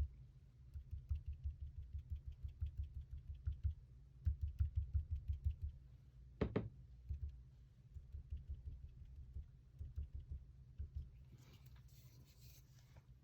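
Sponge dauber dabbing ink onto a die-cut cardstock flower on a tabletop: runs of soft, rapid taps, about four a second, with a sharper knock about halfway through.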